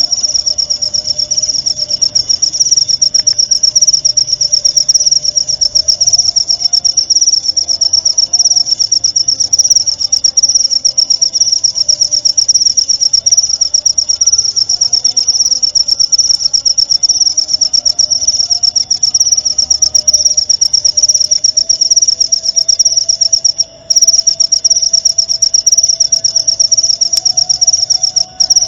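Cricket chirping in a continuous, fast-pulsed, high-pitched trill, breaking off twice for a moment, once about three quarters of the way through and again near the end.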